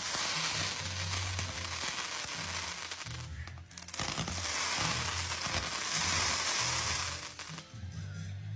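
Fireworks crackling in a dense, continuous barrage. It comes in two long surges with a brief dip between them, and music with a steady bass plays underneath.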